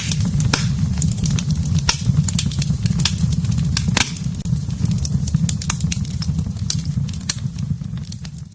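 Wood fire burning in a fireplace: a steady low rush of the flames with frequent sharp crackles and pops, the sound dipping briefly near the end.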